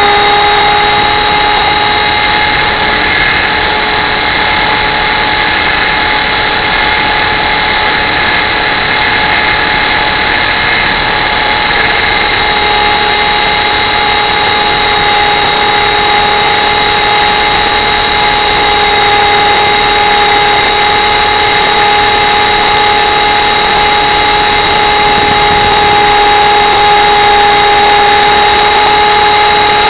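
Radio-controlled camera helicopter's motor and rotors running at a steady speed, a constant loud high-pitched whine with no change in pitch.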